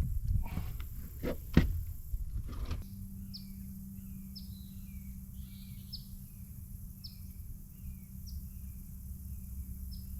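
A few knocks and handling sounds in the first three seconds. Then a steady low hum comes in, and a bird calls over and over, each call a quick high downslur followed by a lower note, about once a second.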